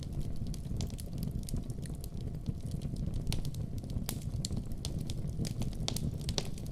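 Wood fire burning in a fireplace: a steady low roar of flames with frequent sharp crackles and pops, several a second.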